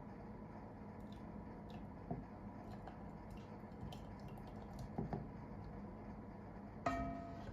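Quiet handling noises, scattered soft clicks and a couple of light knocks, then near the end one sharp clink that rings briefly, like glass or china being set down.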